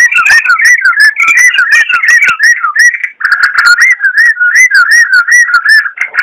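Sooty-headed bulbul (trucukan) singing a continuous fast run of short looping whistled notes, about four a second.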